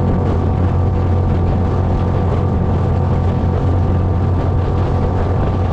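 A small boat's outboard motor running steadily at an even speed, with a strong low hum.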